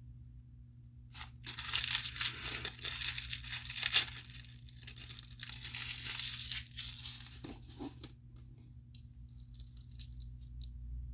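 Plastic packaging being torn open and crinkled, with a sharp snap about four seconds in, then fainter rustling and small clicks as the contents are handled.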